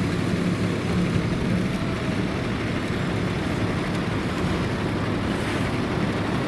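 MAN A23 articulated city bus engine running steadily, a low even hum with road or cabin noise around it.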